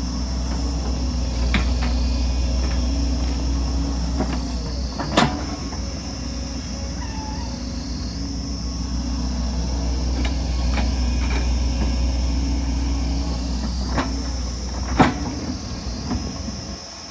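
Heavy excavator's diesel engine running steadily under load, with sharp metal clanks and knocks from the machine at work, the loudest about five seconds in and again near the end.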